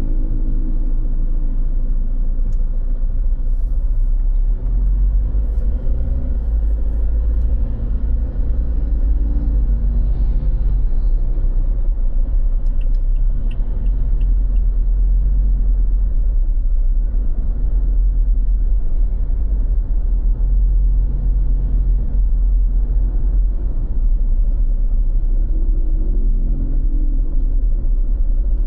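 Loud, steady low rumble with a droning hum whose pitch shifts now and then.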